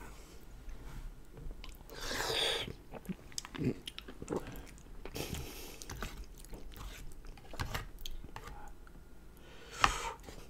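A person chewing and biting mouthfuls of lasagna close to the microphone, with many small mouth clicks and smacks. A single sharp click comes near the end and is the loudest sound.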